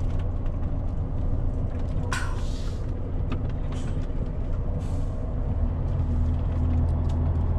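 Truck tractor unit's diesel engine idling steadily, with a short sharp hiss of air vented about two seconds in and a couple of fainter hisses after it. The air system is only building to about 9 bar before it dumps the pressure, and the driver does not know why.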